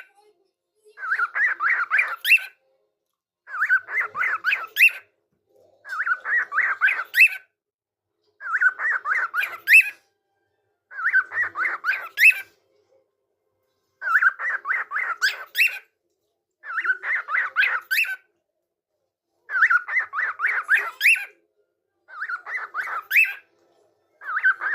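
A pet parrot repeating the same short chattering call about ten times, each call a quick run of pulsed notes lasting about a second and a half and ending in a higher note, with short silent gaps between them.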